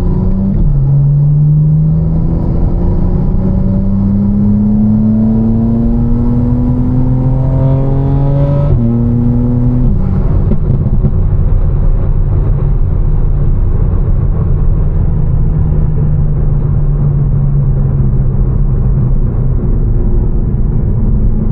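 Tuned BMW M4 twin-turbo straight-six with catless downpipes and a Fi exhaust. The engine note climbs slowly under light acceleration for about eight seconds, shifts around nine to ten seconds in, then holds a steady cruising note over a constant rush of road noise.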